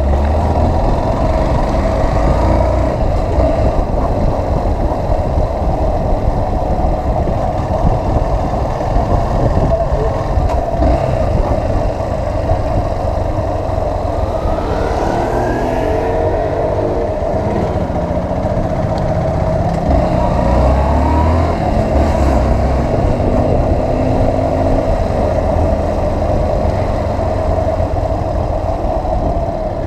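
Motorcycle running on the move, with steady wind rushing over the microphone. The engine pitch rises a few times around the middle.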